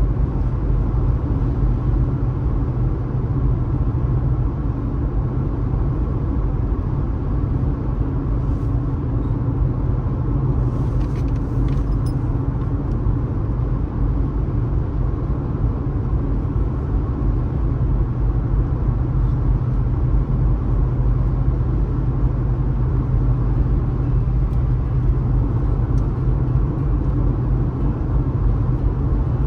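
A car driving at steady road speed: a continuous low rumble of engine and tyre road noise.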